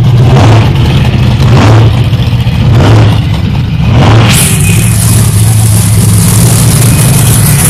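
Monster truck's big engine running and revving in short blips about a second apart, then a steady loud rushing noise takes over from about halfway.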